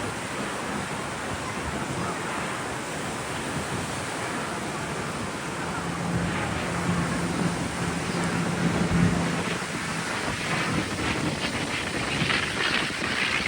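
Wind buffeting the microphone over a steady wash of surf, with a low steady hum for a few seconds midway.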